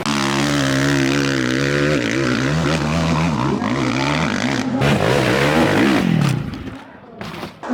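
Dirt bike engine revving hard, its pitch rising and falling again and again, then dropping away about six and a half seconds in.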